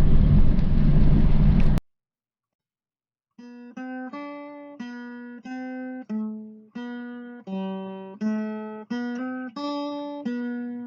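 Steady road noise of a moving vehicle that cuts off abruptly about two seconds in. After a second and a half of silence, acoustic guitar music begins: single picked notes, one to two a second.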